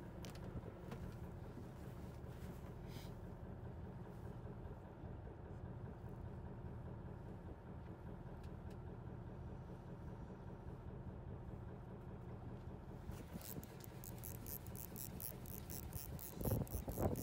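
Fishing boat's engine idling with a steady low hum. Near the end a fishing reel is cranked, giving a rapid, even clicking.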